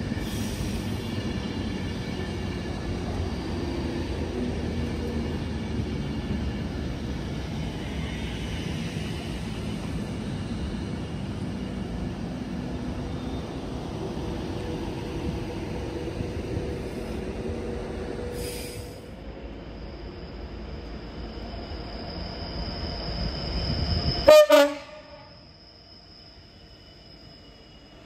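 Avanti West Coast express train passing through the station at speed: a steady rush of wheels on rail and air that eases off after about 19 s. About 24 s in comes one short, loud horn note, and then the sound drops away abruptly to a faint hiss.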